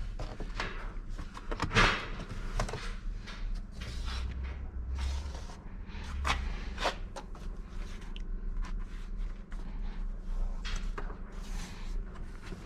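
Irregular clicks, knocks and light rattles of hand work on car interior trim being taken apart, with the sharpest knock about two seconds in.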